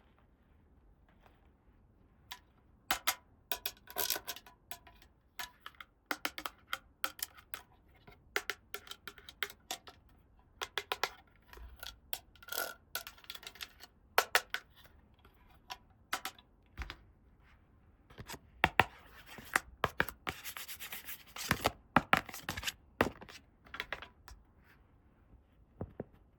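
Hands handling small plastic toy pieces and packaging: scattered sharp clicks and taps with scratchy rubbing and rustling, densest a little past the middle.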